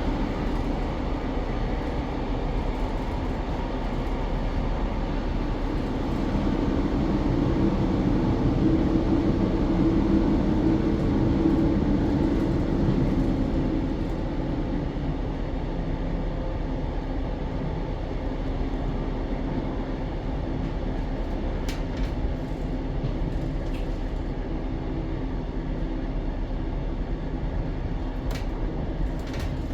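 Diesel train heard from inside the carriage, running with a steady rumble and hum. It grows a little quieter about halfway through, and a few faint clicks come near the end.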